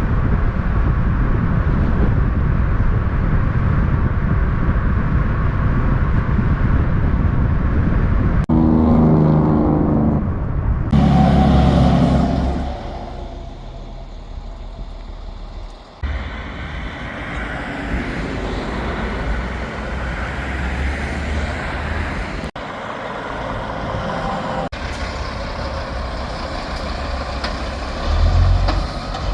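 Big-rig diesel truck engines running loud, in a string of short clips that cut abruptly from one truck to the next. About nine to twelve seconds in, one engine gives a clear pitched note.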